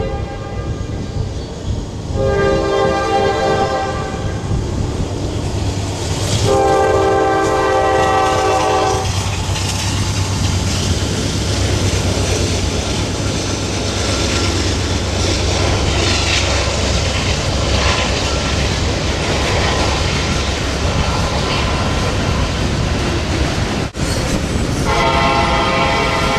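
Locomotive air horn sounding two blasts, then a train rolling by with the low rumble and clatter of wheels on rail. After a brief break near the end, the horn sounds again and holds.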